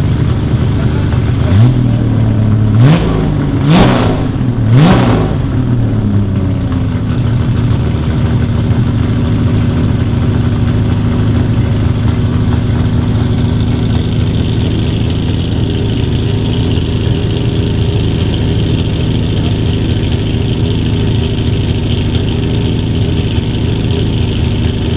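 The straight-six engine of a BMW E9 3.0 CSL Alpina race car revs four times in quick succession, then settles into a steady idle as it warms up.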